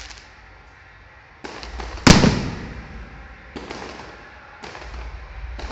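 Fireworks going off: one loud bang about two seconds in that fades away, among quieter steady rushing noise that comes and goes.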